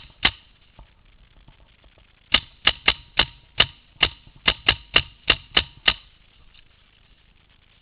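Paintball marker firing: one shot just after the start, then a string of about eleven sharp pops at roughly three a second, which stops about six seconds in.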